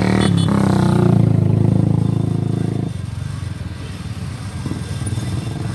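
Off-road vehicle engine running hard under load, then the throttle eases off sharply about three seconds in and it drops to a lower, rough-running rumble.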